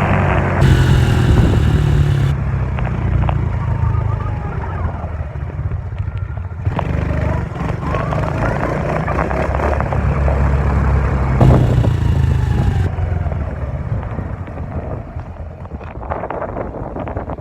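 Dirt bike engine running under throttle, its pitch rising and falling as it revs, with a short let-off about six seconds in. It grows quieter over the last few seconds.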